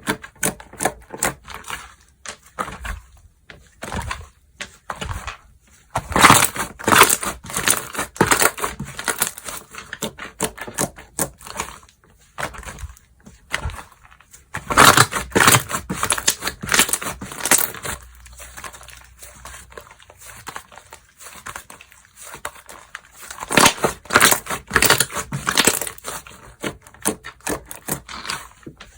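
Slime being squeezed, pressed and stretched by hand, making dense runs of sticky clicks and pops that come in three louder spells.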